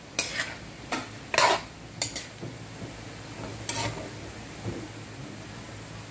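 A metal spatula scraping and clinking against a metal wok as pork cubes are stirred in hot oil with tomatoes, onion and garlic: about half a dozen irregular strokes, over a faint sizzle.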